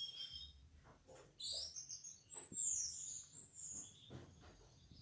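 Orange-headed thrush (anis merah) singing: short high chirps, then a run of high whistled phrases with sliding notes.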